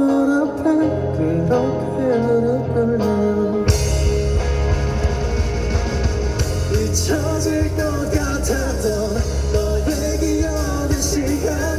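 Live rock band playing: a softer passage with a bending lead melody, then the drums and bass come in at full about four seconds in and the band plays on together.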